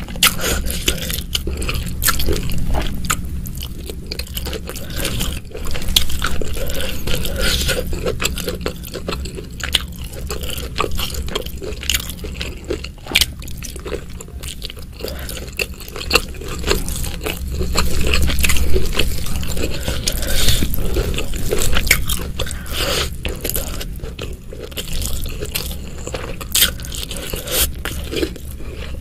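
Close-miked eating by hand: biting and wet chewing of curried stuffed squid (gulai cumi bunting), with many sharp mouth clicks and smacks over a steady low hum.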